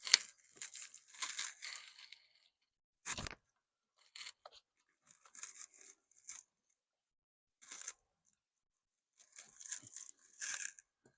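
Scraping, rustling and clicking of plastic steering-column parts being worked by hand in short irregular bursts, as the turn signal switch wiring is pushed into its track in the column. A single sharp knock comes about three seconds in.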